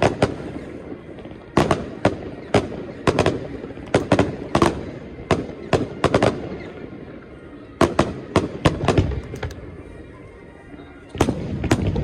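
Aerial firework shells bursting in quick, irregular volleys: sharp bangs, each followed by a rumbling echo. There is a short lull about two thirds of the way through, then another volley begins near the end.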